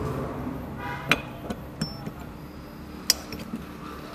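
Steel engine and gearbox parts knocking and clinking against each other and against tools, as a motorcycle gearbox is fitted by hand. There are a few separate sharp clicks and knocks, with a short metallic ring just before one second and the sharpest click about three seconds in.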